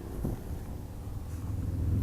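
Low engine rumble from a motor vehicle, growing louder over the last second.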